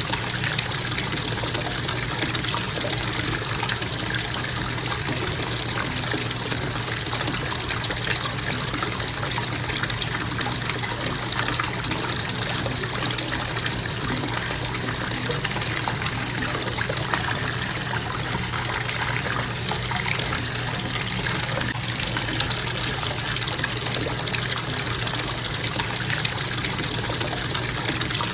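Bathtub faucet running steadily, water pouring into the tub in a constant even rush.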